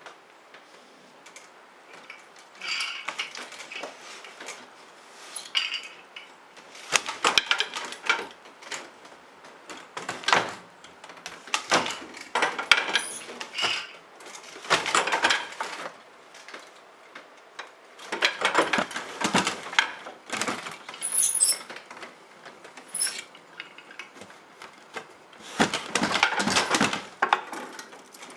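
Dishes and cutlery clinking and clattering in irregular bursts, with a brief high metallic ring a little past the middle.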